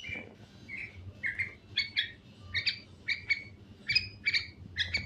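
Young yellow-vented bulbul calling: a steady run of short chirps, about two to three a second, often in quick pairs.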